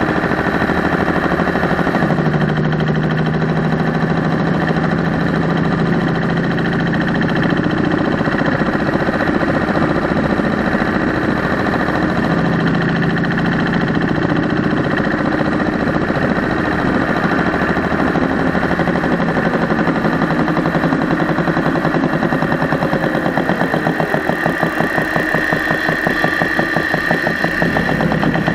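Engine running with a fast, regular tick or knock from the top end, which the owner suspects is lifter/rocker noise or the mechanical fuel pump and later puts down to a tired or weak valve spring. The engine speed changes briefly near the end.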